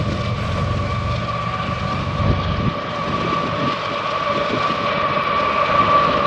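Freight train of container cars rolling past, its wheels clattering over the rails with a steady high-pitched squeal; the low rumble drops away a little under three seconds in.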